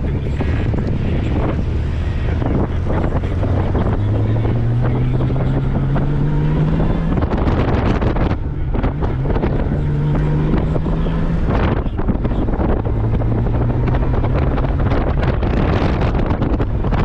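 Honda Gold Wing motorcycle engine under way, its pitch climbing and dropping back three times, buried in heavy wind rush on the microphone.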